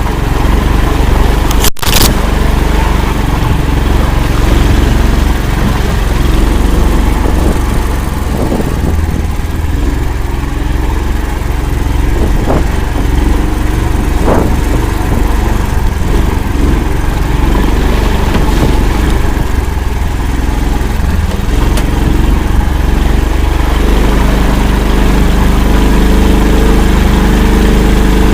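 All-terrain vehicle's engine running loud and continuously as it drives through swamp, with a brief break and a click just under two seconds in. About 24 seconds in, the engine note settles into a steadier, even tone.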